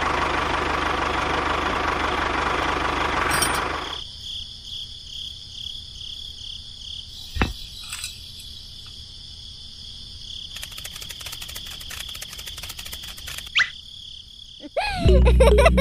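A tractor engine runs for about the first four seconds and then stops, over a steady background of chirping crickets that carries on afterwards. A single sharp click comes about seven and a half seconds in, and music starts near the end.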